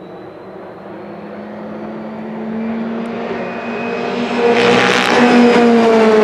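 Rally car engine approaching, growing steadily louder as it nears, with a short burst of noise about four and a half seconds in and the engine note dropping slightly near the end.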